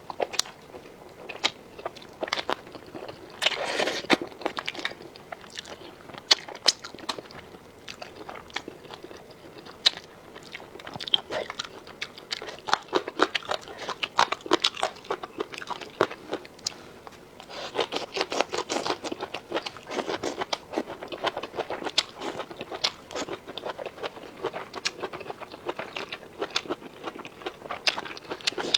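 A person chewing and crunching food, with many sharp clicks throughout and two denser stretches of crunching, a few seconds in and again a little past the middle.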